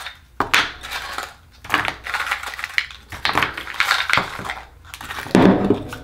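Akoya oyster shells clattering and crunching as they are handled and pried open: a run of sharp clicks and scrapes, with the heaviest crunch about five and a half seconds in.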